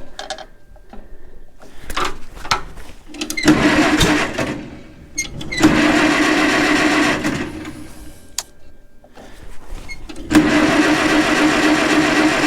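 Old gasoline tractor engine being cranked on its electric starter with the choke out on a cold start, in three bursts of a couple of seconds each, sputtering without staying running.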